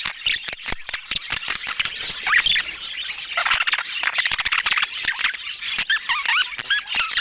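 Budgerigars chattering: a rapid stream of short chirps and squawks mixed with many sharp clicks.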